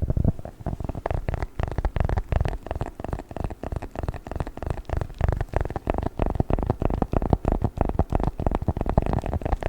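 Close-miked squishing and handling of a 'chocolate book' ASMR toy: a dense run of quick sticky crackles and pops.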